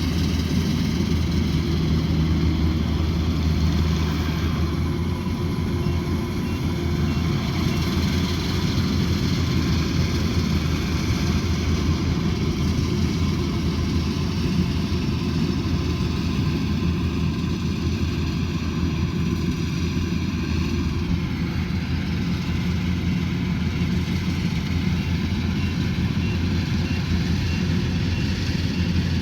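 Rice combine harvester's diesel engine and threshing machinery running steadily under load, a continuous low drone.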